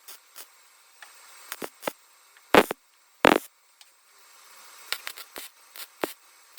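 A scattering of short clicks and knocks, with two louder bursts less than a second apart about midway.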